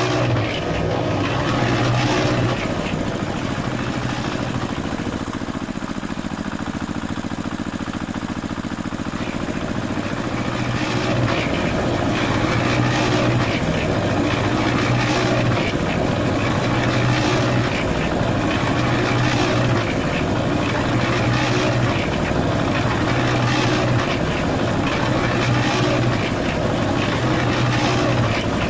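Small electric motor of a homemade model tractor with a concrete-mixer attachment running steadily. It makes a buzzing hum that, from partway through, swells and fades about once a second.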